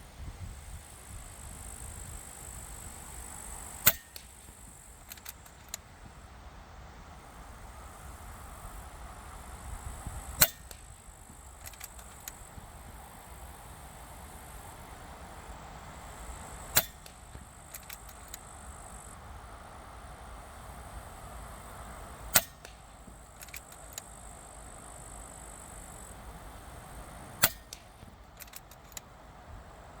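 Five shots from a VL-100 Sheriff 5.5 mm air rifle fired in quick succession, roughly one every five to six seconds, with small quieter clicks between shots. Gusty wind rumbles on the microphone throughout.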